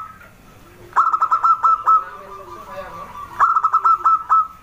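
Zebra dove (perkutut) singing: two phrases of quick staccato cooing notes, each ending in a held note, about a second in and again at about three and a half seconds.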